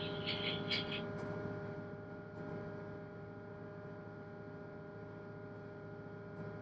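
Tugboat's 1000 PS main engine running steadily, a low hum with several constant tones above it. A few short high-pitched chirps sound in the first second.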